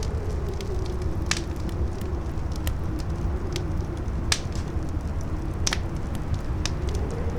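Campfire crackling, with a few sharp pops standing out, over howling wind: a moaning whistle that wavers in pitch and rises near the end, above a steady low wind rumble.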